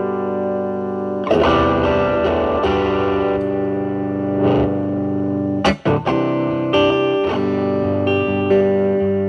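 Electric guitar (Telecaster) through a silicon-transistor Mosrite Fuzzrite clone and a Marshall Valvestate's drive channel, with the guitar volume rolled back to clean up the fuzz into a lightly distorted tone. Ringing chords are struck and held, with a new chord about a second in and a short break and restrike about six seconds in.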